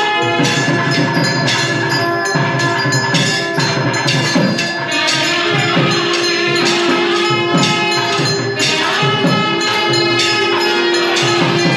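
Temple puja bells ringing in rapid, continuous strokes during a deeparathanai, with a steady held note beneath them that drops out and comes back.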